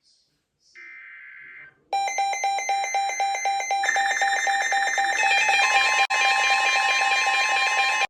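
NOAA Weather Radio alert. A brief buzzy data burst is followed about two seconds in by a loud, rapidly pulsing electronic alarm of several tones, with a steady tone joining in partway through. It signals that a new severe thunderstorm warning is about to be broadcast.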